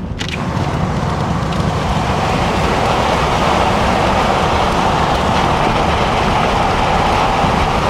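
Steady road and engine noise inside a moving vehicle. It grows louder over the first couple of seconds, then holds level.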